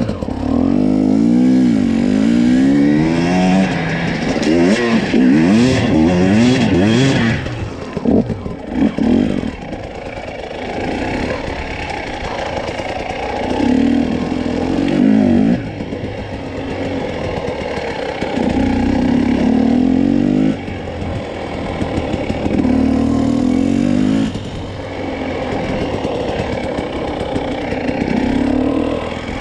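Husqvarna TE250i two-stroke enduro motorcycle engine, revving up and falling back again and again in short bursts, with stretches of lower, steadier running between them.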